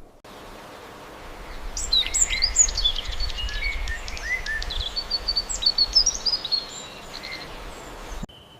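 A nature recording of many small animals chirping: short high chirps and quick whistled glides, thick from about two seconds in, over a low steady rumble. It cuts off shortly before the end.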